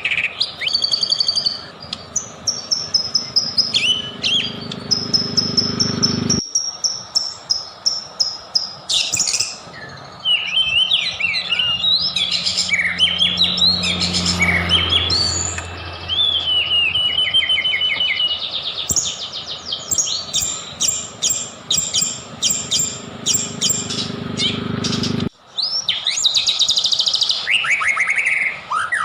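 White-rumped shama singing a long, varied song of whistled phrases, glides and chattering trills, with a fast run of repeated notes a little past the middle. The sound cuts abruptly twice, where the recording is spliced.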